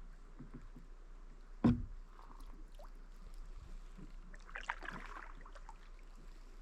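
Kayak paddle strokes with water splashing and dripping off the blade, and one sharp knock about two seconds in.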